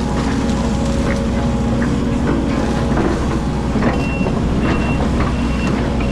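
Hydraulic excavator's diesel engine running steadily under work, with scattered knocks and clatter. About four seconds in, a high-pitched warning alarm starts beeping about twice a second.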